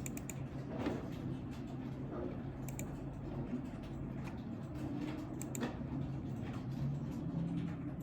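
Sparse clicks of a computer keyboard and mouse over a steady low room hum.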